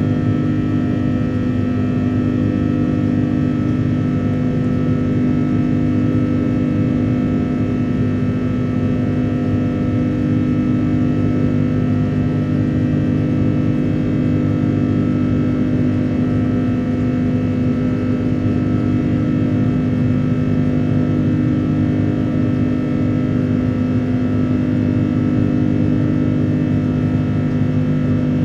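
Cabin noise of an Airbus A330-300 with Rolls-Royce Trent 700 engines, heard from a window seat during climb: a steady, loud engine drone with several held tones over a low rumble of airflow.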